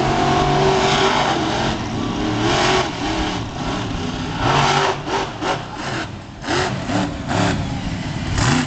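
Monster truck engine revving hard, its pitch rising and falling again and again as the throttle is worked through the course, with loud bursts of noise mixed in.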